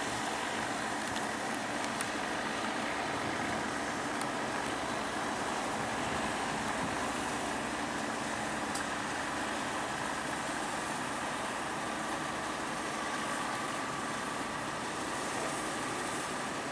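An engine running steadily, a continuous unchanging drone with a noisy hiss over it.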